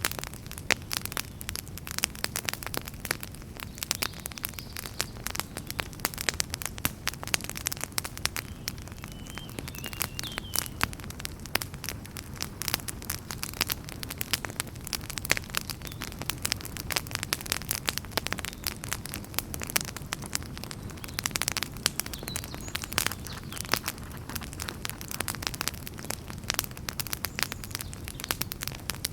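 Wood fire burning in a fireplace: dense, irregular crackles and pops over a steady low rumble of the flames, with a faint brief whistle about ten seconds in.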